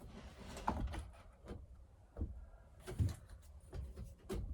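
Irregular knocks and clicks of chainsaw parts being handled while an anti-vibration buffer and its eyelet are fitted into the handlebar, about half a dozen in a few seconds.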